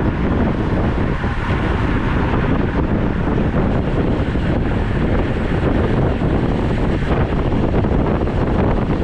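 Steady wind buffeting the microphone of a camera carried on a moving road bike, a loud even rush heaviest in the low end.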